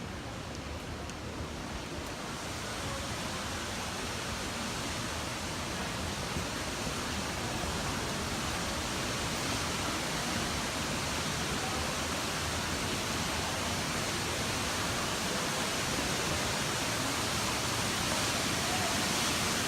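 Steady rushing water of a waterfall, slowly growing louder.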